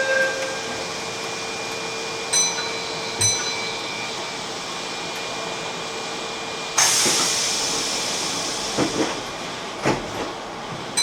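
Keihan Main Line electric train running with a steady rumble, and two short bell-like dings a few seconds in. About seven seconds in, a sudden loud burst of compressed-air hiss starts and slowly fades, followed by a few sharp clacks of wheels over rail joints.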